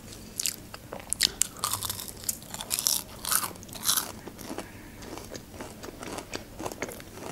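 Close-up crunching and chewing of a fried breaded onion ring. Sharp, crisp crunches come in a run over the first four seconds, then softer chewing.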